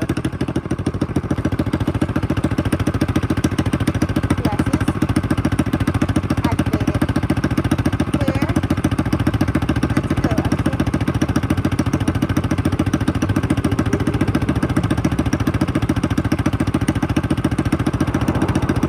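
Dirt bike engine running steadily at a fast, even putter, with no clear revving.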